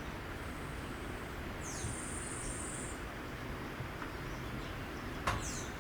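Quiet outdoor ambience with a steady low background rumble and a high, steady insect trill lasting a little over a second about two seconds in, with a faint short chirp near the end.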